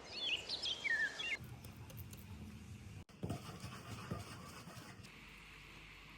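Small songbird chirping in quick rising and falling notes for about the first second and a half, then the sound cuts to faint outdoor ambience with a few low knocks just after the middle.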